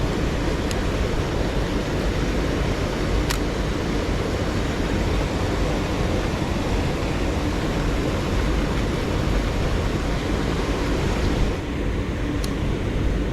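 Steady rushing of a mountain stream, a constant roar with a few sharp clicks heard over it.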